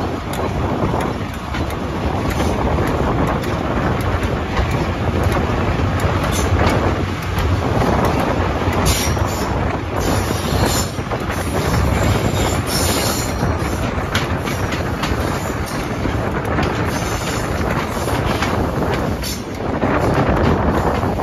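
An HST (InterCity 125) train running along jointed track, heard from an open window: rumbling wheels and rail-joint clicks with wind rushing over the microphone. A few brief, high-pitched wheel squeals come about nine to thirteen seconds in as it runs over pointwork.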